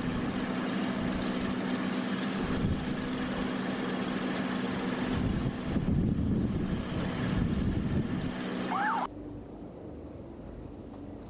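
Strong wind rushing over the microphone, with a steady engine hum underneath. About nine seconds in it cuts off suddenly to a quieter low rumble.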